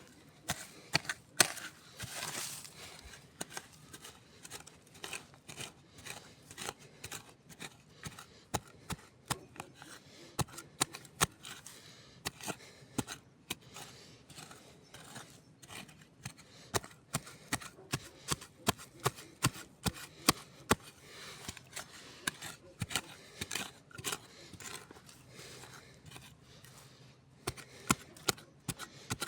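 Wood campfire crackling: irregular sharp pops and snaps, with a brief hiss about two seconds in.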